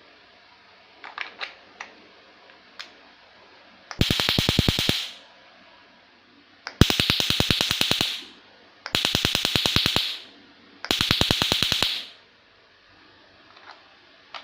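Taser stun gun arcing in four bursts of about a second each, a rapid, even crackle of sparks at many snaps per second. A few light plastic clicks come before the first burst.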